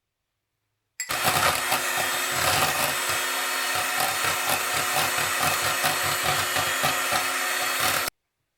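Electric kitchen appliance motor, blender-type, switched on about a second in. It runs steadily for about seven seconds with a fast low pulsing, then stops abruptly.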